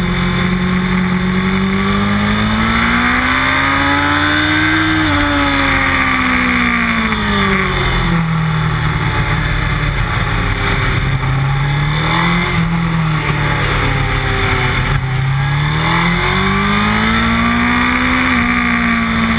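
Race motorcycle engine heard from an onboard camera, running hard and revving up and down through the corners. The pitch climbs and falls several times as the rider accelerates and then backs off, over a steady rushing hiss.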